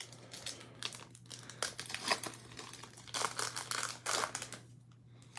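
Crinkling and rustling of a trading-card pack's foil wrapper being handled, in irregular bursts that grow louder in the middle of the stretch.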